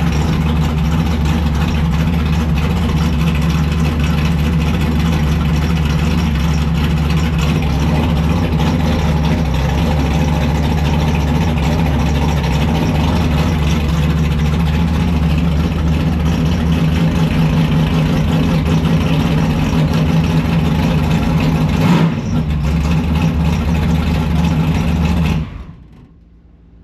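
Race car engine running steadily at a fast idle on its first run with a newly rebuilt transmission, circulating the transmission fluid. There is a short louder moment a few seconds before the engine is switched off, near the end.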